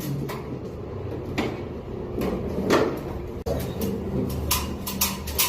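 Scattered clicks and knocks of hard objects being handled, with a cluster of quick knocks near the end, over a low steady hum.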